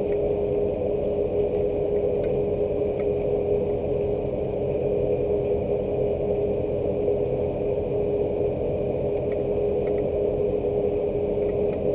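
Rain with a steady mechanical hum holding one constant tone beneath it, and occasional faint tick-like drips.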